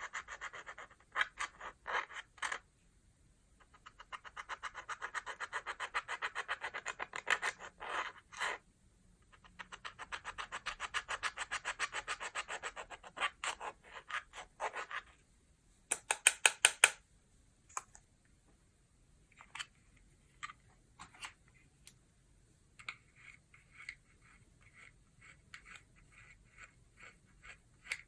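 Slime being stirred and squished, making runs of rapid clicks and pops several seconds long. A louder cluster of pops comes about 16 seconds in, and the clicks grow sparser and softer near the end.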